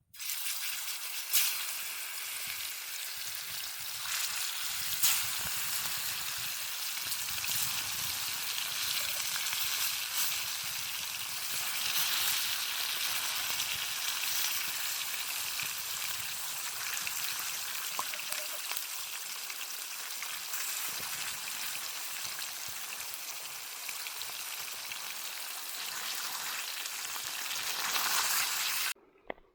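Chicken sizzling on a grill over a campfire: a steady hiss with scattered small pops. It cuts off suddenly near the end.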